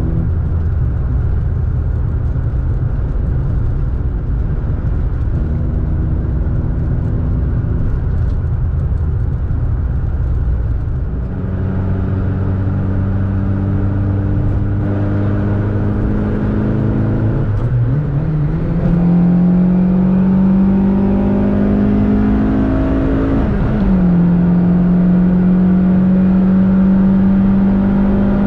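VW Golf MK2 16-valve four-cylinder on motorcycle carburettors (individual throttle bodies) pulling the car along. Its note holds steady at first, then rises in pitch and gets louder about two-thirds of the way through. It dips briefly near the end and then holds steady.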